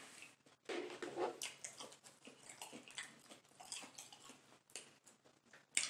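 A person chewing a mouthful of sauce-dipped chicken nugget with the mouth close to the microphone: irregular short smacks and crunches.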